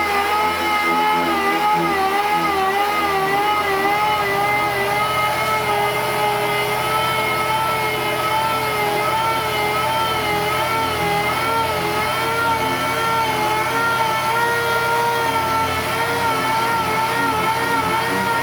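A power tool's motor running steadily, its whine wavering slightly in pitch, over a low steady hum.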